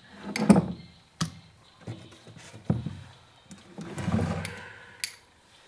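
Chainsaw parts being handled and fitted by hand: a few sharp knocks and clicks, with two longer clattering bouts of handling, one near the start and one about four seconds in.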